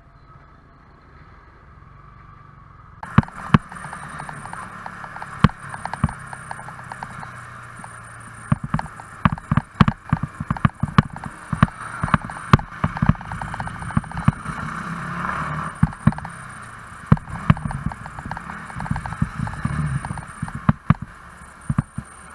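Moving-vehicle sound picked up by an onboard camera microphone during a motorcycle ride: a rushing noise with many sharp knocks and bumps, which starts abruptly about three seconds in after a quieter opening.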